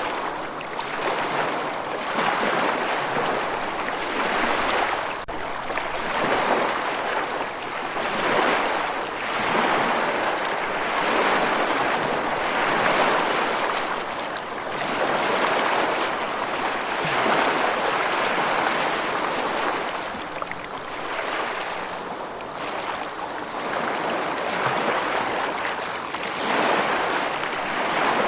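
Rushing water, a steady hiss that swells and eases every two seconds or so.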